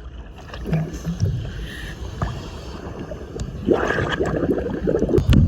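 Seawater sloshing and splashing around a camera at the surface, with wind on the microphone and brief muffled voices about a second in and again near the end.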